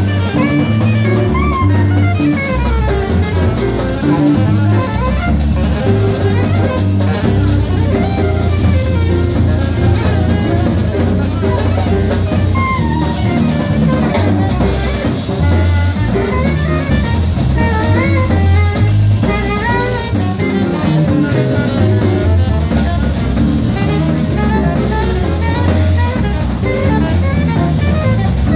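Live jazz combo playing: a walking bass line carries the bottom under a drum kit, with a melodic line above.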